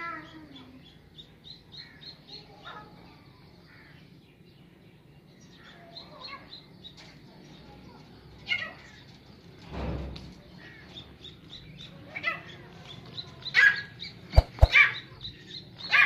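Birds chirping: many short, high chirps repeating, with louder calls in the second half and a few sharp knocks near the end.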